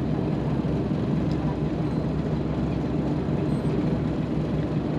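A boat's engine running steadily with an even low hum.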